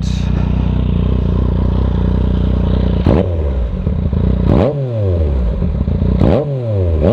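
Yamaha FZ-09 (MT-09) 847 cc inline-three engine idling warm through an Arrow aftermarket exhaust with the dB killer removed. Then come three quick throttle blips, about three, four and a half and six seconds in, each revving up sharply and dropping back to idle.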